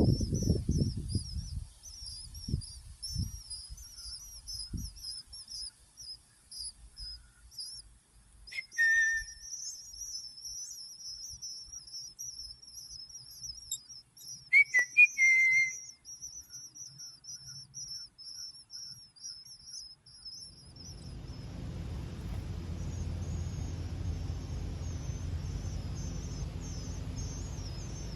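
A continuous high-pitched chirring, with two short whistled calls that glide in pitch, the first about nine seconds in and the second, a brief burst of notes, about fifteen seconds in. A low steady rumble comes up about two-thirds of the way through.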